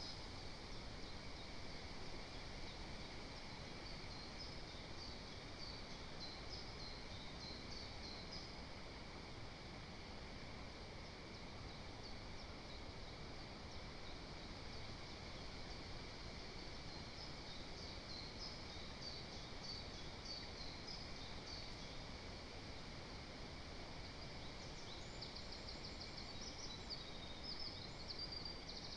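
Faint songs of small forest birds, high-pitched chirps and trills over a steady hiss, pausing for several seconds in the middle and growing busier near the end with a quick trill.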